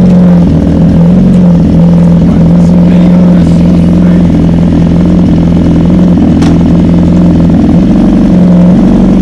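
A vehicle engine running loudly at a steady speed, a single constant drone that wavers only slightly in pitch.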